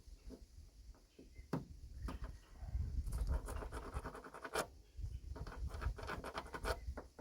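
Scratching and rustling of a paper template being rubbed and pressed against a car door part, with a single sharp click about a second and a half in and denser scratching in the second half.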